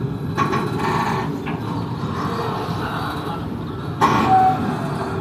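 Passenger train running with a steady rumble. A brief louder sound with a short held tone rises over it about four seconds in.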